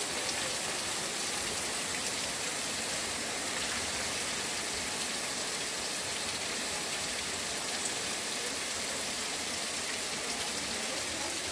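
Heavy rain falling on a paved street and rooftops, a steady, even hiss.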